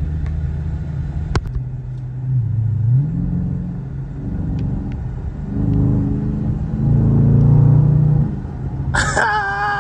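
Dodge Charger Scat Pack's 6.4-litre HEMI V8 running under way, its low engine note dipping and rising again a couple of seconds in and swelling loudest about seven to eight seconds in as it accelerates.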